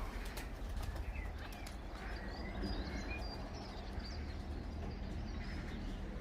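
Faint, scattered high bird chirps over a steady low rumble.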